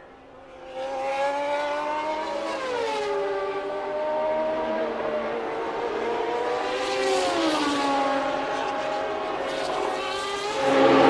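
1989 naturally aspirated 3.5-litre Formula One engines running at high revs. The pitch drops in two stepped slides as the car lifts and changes down, and a louder engine comes in near the end.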